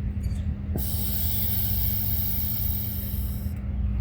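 A person taking a long, deep breath, heard as a loud airy hiss lasting about three seconds, starting about a second in, over a steady low rumble.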